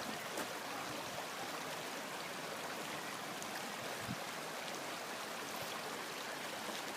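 Steady rush of a shallow stream's running water.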